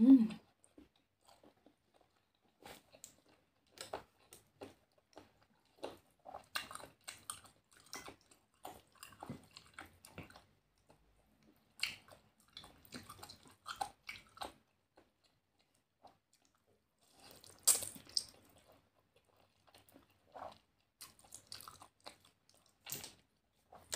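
A person chewing and eating close to the microphone, first a balut egg and then spaghetti: scattered short, wet mouth clicks and smacks. A louder burst comes about eighteen seconds in.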